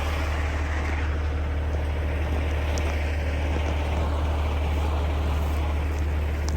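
Heavy truck's diesel engine idling steadily, a deep even drone with no change in speed.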